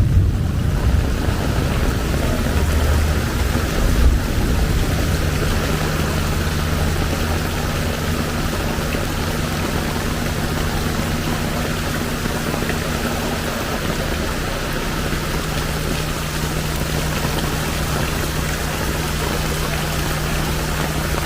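Heavy rain and floodwater noise with a vehicle engine running steadily, its low hum coming in about five seconds in and holding on.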